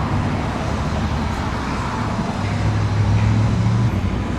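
Road traffic: a motor vehicle's engine hum with the wash of passing cars, the hum growing louder a little past halfway and easing near the end.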